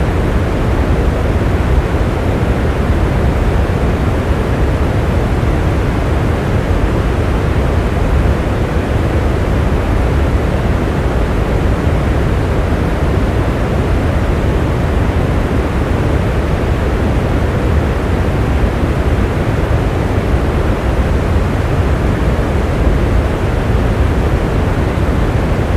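Rain falling steadily: an even, unchanging rush that is deep rather than hissy.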